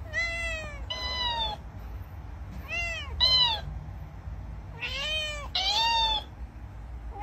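A cat meowing while a dancing-cactus mimic toy echoes each meow back at a higher pitch. There are three exchanges, each a low meow followed by a squeakier copy.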